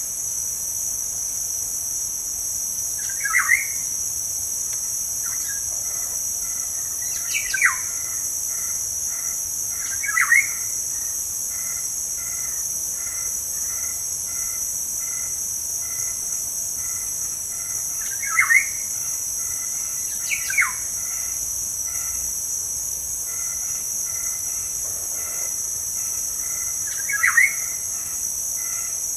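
Wild birds calling: short, sharp calls that sweep downward in pitch, heard about six times a few seconds apart, with a faint repeated two-note call in between. Behind them runs a steady, high-pitched drone of insects.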